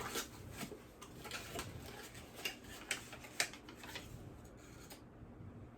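Irregular clicks and crinkles of product packaging being handled and opened, stopping about five seconds in.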